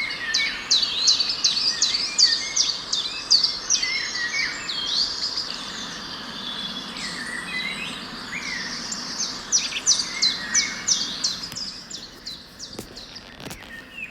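Birds chirping in quick, repeated high notes that sweep downward, over a steady outdoor hiss. The chirping comes in two busy runs and thins out near the end.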